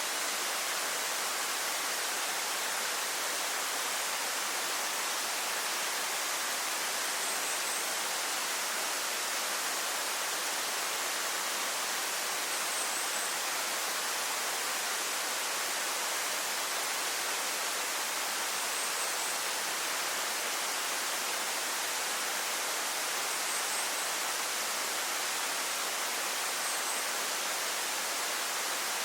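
Waterfall pouring steadily, an even full rush of falling water with no change in level. A faint high triple chirp comes five times, a few seconds apart.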